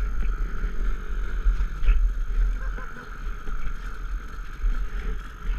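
Muddy water sloshing around a motorcycle bogged in a deep hole, with heavy rumble on the microphone.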